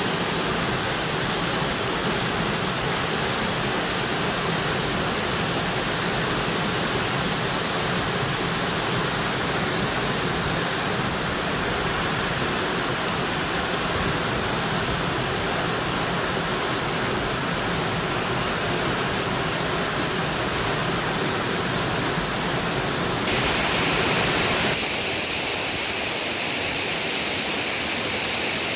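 Steady rush of a waterfall. About three-quarters of the way through it turns briefly louder for a second or so, then duller with less hiss.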